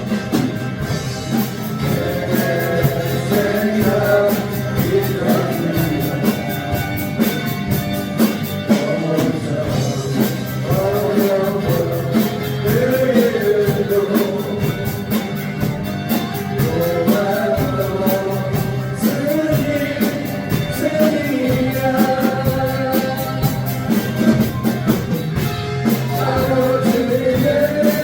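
A band playing a rock-style song, with a singer's melody over drums keeping a steady beat.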